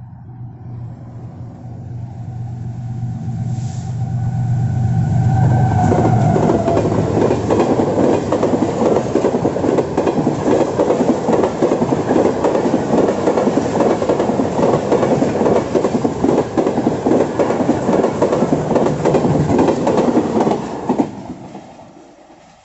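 Pakistan Railways passenger express approaching and passing at speed. The locomotive's sound grows louder and drops in pitch as it goes by about six seconds in. Then a long run of coaches clatters rhythmically over the rail joints before fading away near the end.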